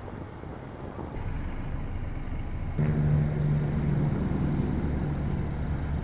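Audi A5 2.0T's turbocharged four-cylinder engine and exhaust running, then revved about three seconds in and held at a steady higher note.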